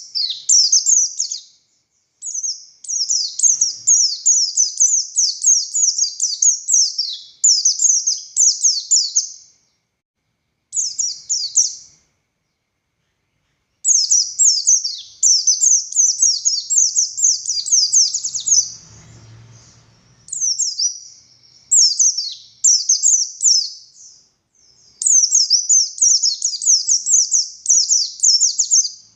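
A pleci buxtoni white-eye singing loud, fast, high-pitched twittering runs of several seconds each, broken by short pauses. A faint low rumble sits under one of the pauses, about two-thirds of the way through.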